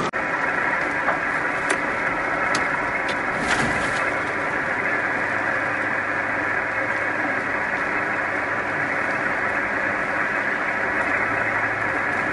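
Steady road and engine noise heard from inside a moving car, with a few faint clicks in the first few seconds and a low, even hum through the second half.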